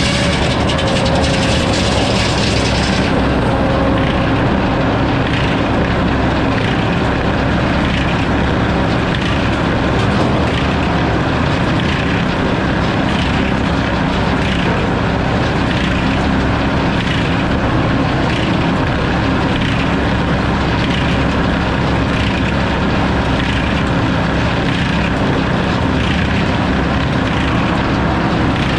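Sawmill running steadily as the saw cuts through a log: a loud, continuous mechanical noise with a faint regular pulsing in the upper range.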